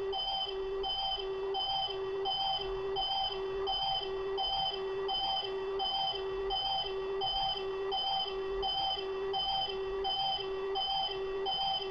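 Ultraman 80 Color Timer gashapon toy sounding its warning beep: a pitched beep repeating evenly about twice a second. This is the red-blinking 'pinch' stage, the sign that Ultraman's energy is running low.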